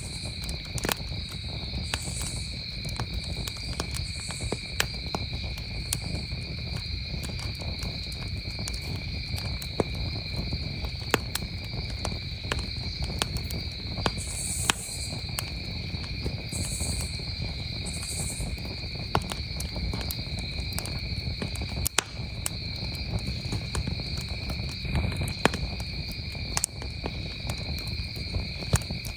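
Campfire crackling, with irregular sharp pops from the burning wood over a low steady rumble. Behind it a chorus of crickets trills steadily at two pitches, and a few brief high chirps come through now and then.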